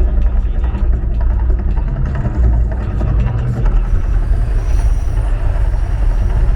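Loud, steady deep rumble of the Mirage volcano show, its eruption effects playing through loudspeakers.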